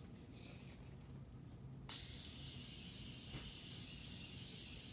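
Morphe makeup setting spray misting onto the face: one long, steady, fine hiss that starts suddenly about two seconds in.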